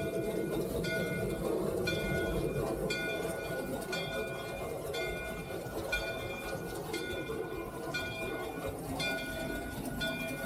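Three-truck Shay steam locomotive heard from inside its cab: a steady low rumble with a high ringing tone that breaks off and comes back about once a second.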